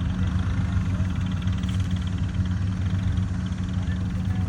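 Swaraj 855 FE tractor's three-cylinder diesel engine running steadily.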